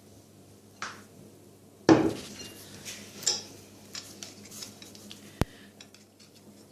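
Dishes and cutlery knocking and clinking: one heavy knock about two seconds in, then lighter clinks and clicks, with a sharp single click later on.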